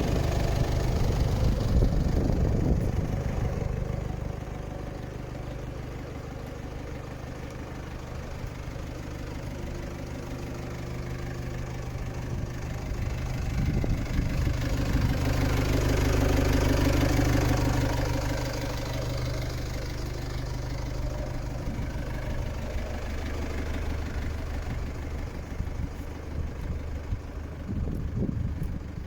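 IVECO Eurocargo 120E19 truck's diesel engine idling steadily. It runs a little louder for the first couple of seconds, and its speed rises gradually about halfway through before easing back to idle.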